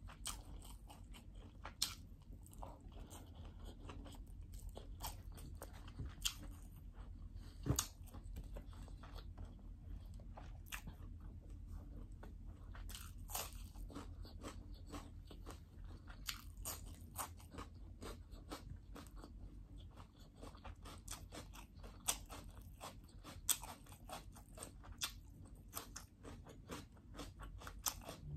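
A person eating fried rice with her fingers: chewing and mouth sounds, with many irregular sharp clicks and smacks.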